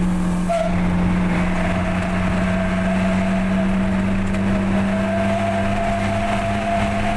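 A restored truck's engine running at a steady pitch while driving on a road test, a constant drone.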